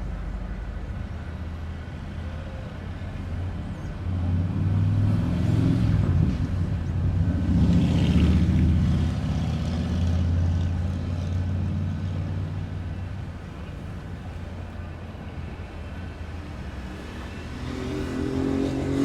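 A motor engine passing by: a low rumble swells about four seconds in, is loudest around eight seconds, and fades away, with another engine coming up near the end.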